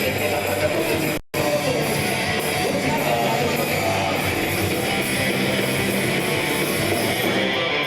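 Live heavy rock band playing loudly, with electric guitars, drums and singing; the recording drops out completely for a split second about a second in.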